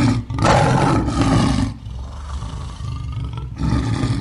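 Big cat roaring: a loud, rough roar that starts suddenly, eases off, then swells again near the end.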